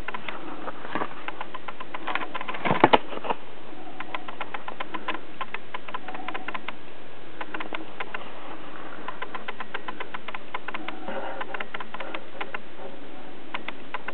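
Paper booklet being handled and its pages turned: a run of light clicks and rustles, with a few louder knocks about three seconds in.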